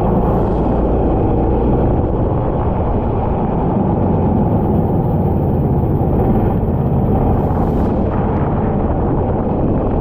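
Racing kart running at speed, its engine buried under heavy wind buffeting on the onboard camera's microphone: a loud, steady rush of low noise.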